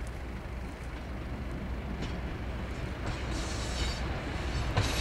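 Train on the line, its low running rumble growing steadily louder as it approaches, with a higher rail hiss joining in about three seconds in.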